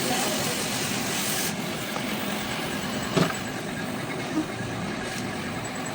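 Steady mechanical running noise, with a sharp knock about three seconds in and a lighter one just over a second later.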